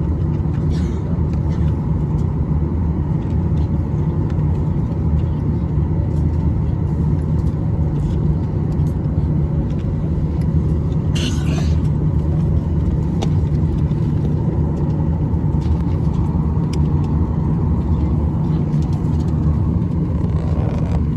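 Steady low rumble inside an airliner cabin on the ground just after landing, with the engines and air system running. There is a faint steady tone throughout and a brief higher noise about eleven seconds in.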